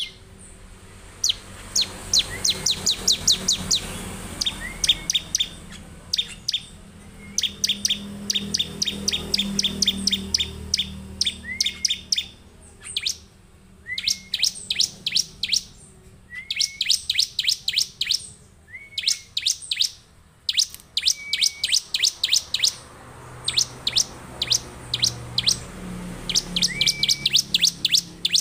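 Bar-winged prinia (ciblek) in full song: repeated fast runs of sharp, high, downward-slurred notes, about five or six a second, each run often opened by a short lower upturned note, with brief gaps between runs.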